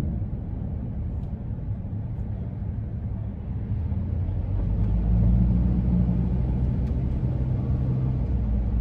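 Inside the cabin of a moving 2001 Ford E-350 van: engine and road rumble with a steady low hum, growing louder about halfway through.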